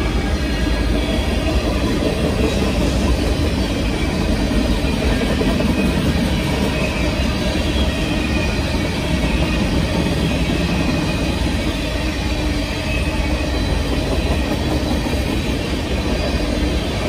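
Freight train cars rolling past on the rails: a steady, loud wheel-on-rail rumble with no break.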